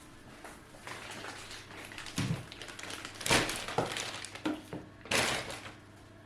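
Several knocks and scraping thuds of objects being handled, the loudest about three seconds in and another near the end.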